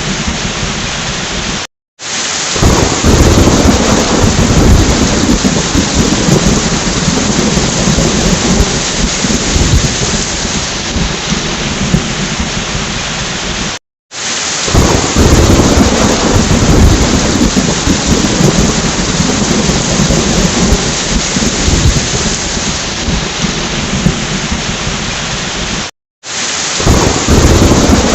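Heavy rain with rolling thunder, played as a loop about every twelve seconds: each pass cuts off into a brief silence, then restarts with a low rumble of thunder over the rain, which settles back to steady rain.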